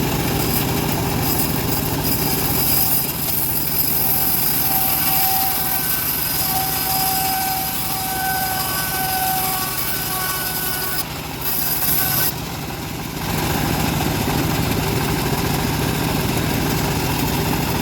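Engine-driven homemade bandsaw running steadily, with a thin whine from about four seconds in that stops near twelve seconds, and a brief drop in level just after.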